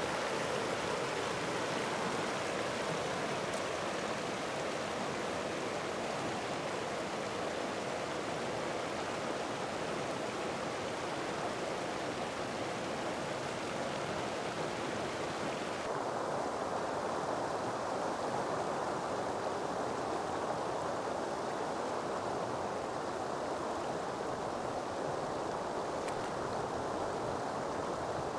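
Steady rush of flowing water. About halfway through, its high hiss drops away, leaving a duller rush.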